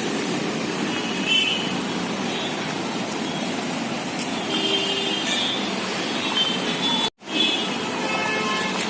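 City road traffic: a steady rumble of engines and tyres, with short horn toots about a second in and again around five seconds in. The sound drops out for a moment just after seven seconds.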